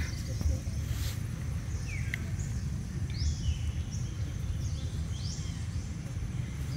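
Outdoor ambience: birds calling repeatedly with high, sweeping chirps that rise and fall in pitch, about one a second, over a steady low rumble.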